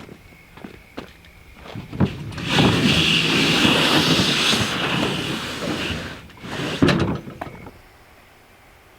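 A kayak's hull scraping as it is slid into a pickup truck bed, a long slide of about three and a half seconds, followed by a few sharp knocks as it settles. A few lighter knocks come first.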